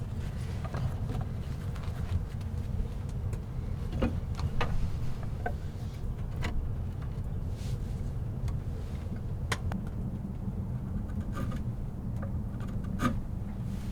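Strong wind rumbling low and steadily, with scattered small clicks and knocks over it.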